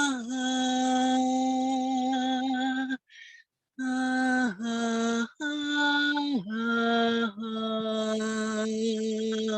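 A voice toning or chanting wordless long held notes in a low, steady pitch, each note sliding down as it ends. There is a quick breath between phrases about three seconds in.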